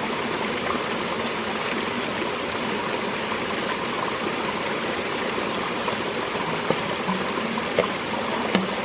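Steady rush of running water, with a few short clicks or knocks in the last couple of seconds.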